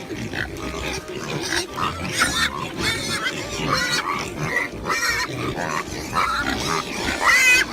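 Pig grunting and squealing, with a loud squeal near the end.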